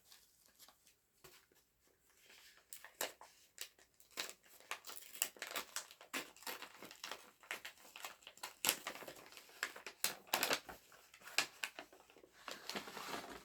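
Packaging crinkling and rustling in irregular handling bursts as a small kit is unwrapped by hand, sparse at first and busier from about four seconds in.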